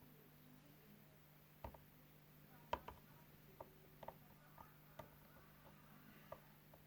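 Near silence over a low steady hum, with about nine small, light clicks and taps at irregular intervals, the sharpest about a third of the way in.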